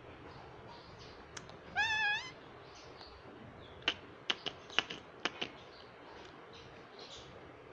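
Indian ringneck parrot giving one short, wavering call, like a meow, then a quick run of about seven sharp clicks.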